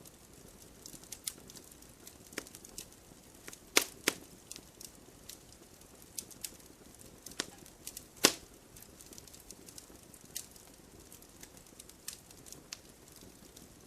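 Wood fire crackling in a fireplace: irregular sharp pops and snaps from burning logs over a faint low rustle, with the loudest pops coming as a quick pair about four seconds in and a single one about eight seconds in.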